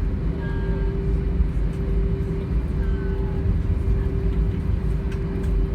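Cabin noise of an Airbus A320 taxiing: a steady low rumble of the engines and the wheels rolling, with a constant hum running through it.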